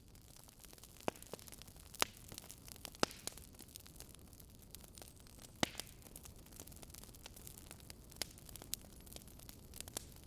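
Wood fire in a fire pit crackling: irregular sharp pops and snaps, a few of them louder, over a soft steady hiss.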